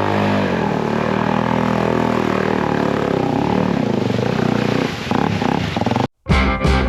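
Dirt bike engine running, its pitch falling and shifting as the revs change. It cuts off abruptly about six seconds in, and music starts near the end.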